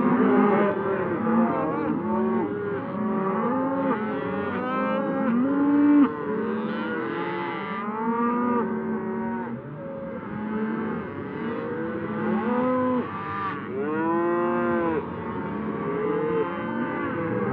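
A herd of cattle mooing, many calls overlapping without a break, with one louder, drawn-out moo rising and falling in pitch near the end.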